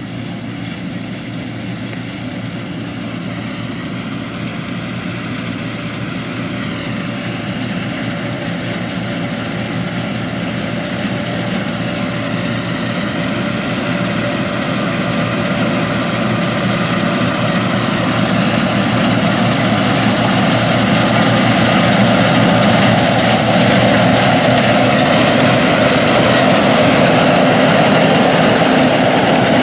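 Deutz-Allis Gleaner R60 combine running while harvesting wheat: a steady engine and machinery sound, growing steadily louder.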